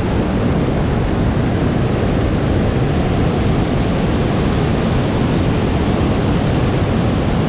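Steady rushing of Big Manitou Falls, a waterfall about 165 feet tall, heard close from the top of the falls: a loud, even noise, strongest in the low range.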